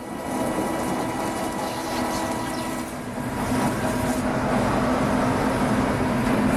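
TOS SUA 125 CNC lathe running, a steady mechanical hum with several constant tones. About three seconds in the tones shift and it grows louder.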